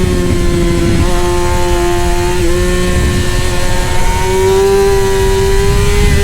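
Middleweight superbike racing engine held at high revs, its pitch sagging a little through the first half and then climbing again about two-thirds in.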